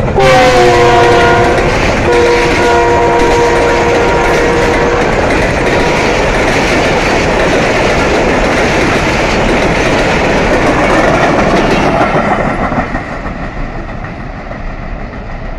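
Diesel locomotive sounding its multi-tone horn as it passes close by, the chord dipping in pitch as it goes past, then a second long blast lasting a few seconds. Then the passenger coaches roll past with their wheels clattering on the rails, the noise fading over the last few seconds as the train moves away.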